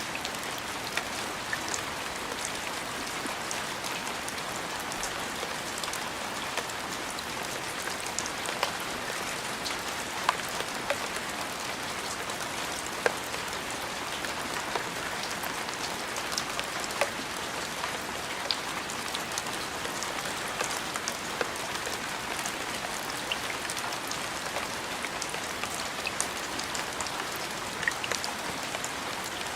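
Steady rain falling on a surface, an even hiss with many distinct drops ticking sharply throughout.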